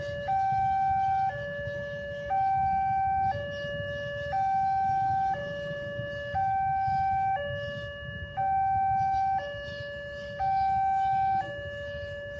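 Two-tone warning siren alternating evenly between a higher, louder note and a lower note, each held for about a second, over a steady low rumble.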